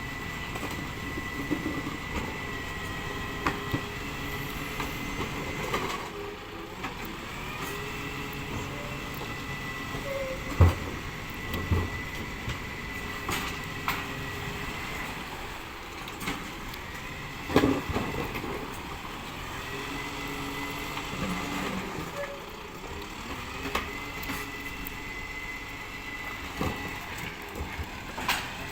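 Recycling collection truck at work: its engine runs under a whining tone that starts and stops in stretches of several seconds, with a few loud clunks about ten, twelve and eighteen seconds in.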